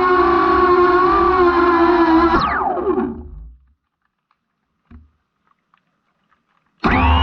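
Brushless motors of an iFlight Bumblebee cinewhoop drone whining steadily, heard from the GoPro mounted on top; about two and a half seconds in the pitch drops sharply as the throttle is cut and the motors wind down to silence. A single soft thump comes about five seconds in, and near the end the motors spin back up with a rising whine.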